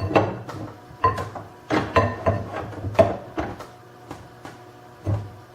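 Metal tool rest being fitted and adjusted on a wood lathe: a string of irregular knocks and clanks, several with a short metallic ring, as it is set in place and locked.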